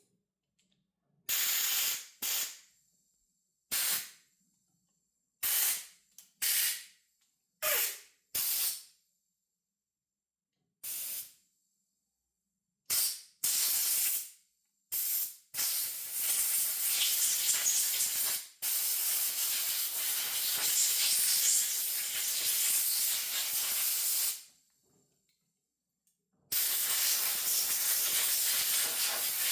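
Pressurised spray hissing from a nozzle onto carburettor parts: about a dozen short bursts, then a long continuous blast of roughly eight seconds, and another starting near the end.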